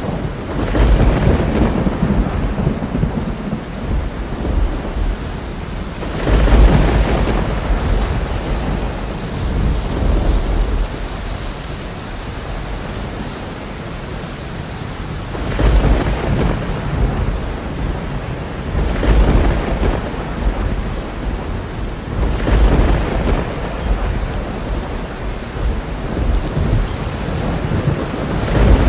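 Thunderstorm: steady heavy rain with repeated deep rolls of thunder, about six rumbles that swell up and die away over a few seconds each.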